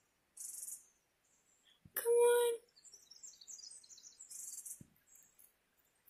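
Small birds chirping in a quick run of short, high notes. About two seconds in comes one brief, high-pitched vocal note, the loudest sound here.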